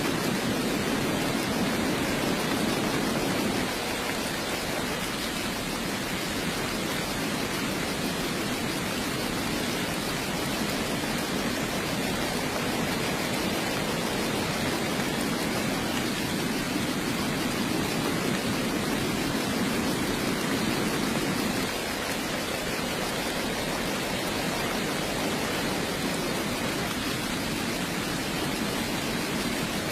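Steady heavy rain, an even rushing hiss with a fuller low body, dipping slightly in level twice.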